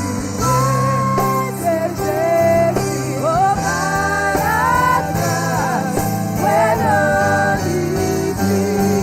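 Worship singing with instrumental accompaniment: a voice sings long, gliding melodic lines over held chords and a steady bass.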